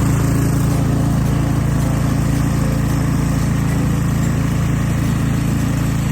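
Small gasoline engine of a garden tiller running steadily under load.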